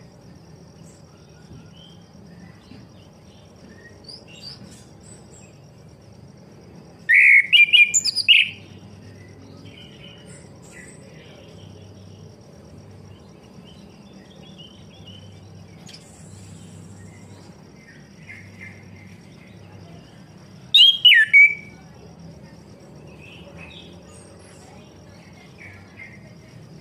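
Chestnut-capped thrush (anis kembang) song: two short, loud, varied phrases, one about seven seconds in and another about twenty-one seconds in, with fainter bird chirps between them over a steady high insect trill.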